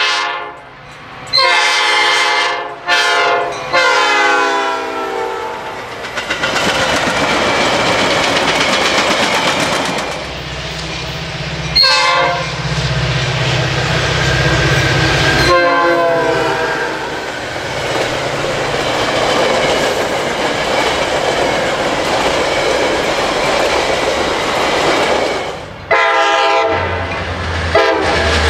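Metra commuter trains' diesel locomotive horns sounding a long, long, short, long crossing signal, then the steady noise and rail clatter of a train passing close by. After a cut, a locomotive's engine rumbles past with a short horn blast, another train's horn sounds, the passing noise returns, and several more horn blasts come near the end.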